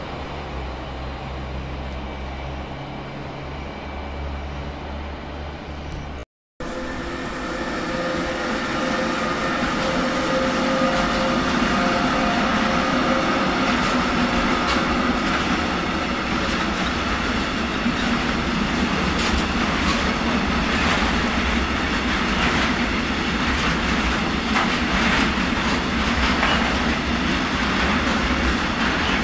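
A freight train of container wagons rolling past behind a class 186 electric locomotive: a steady rumble, a thin squealing whine in the first part, and wheels knocking over rail joints in the second half. Before a cut about six seconds in, there is a low steady hum from an approaching class 643 diesel multiple unit.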